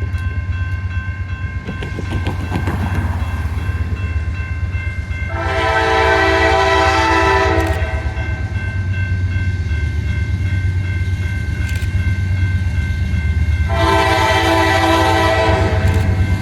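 A GE AC44C6M diesel locomotive approaching under power, its engine a steady low drone, sounds two long horn blasts of about two seconds each: one about five seconds in and one near the end.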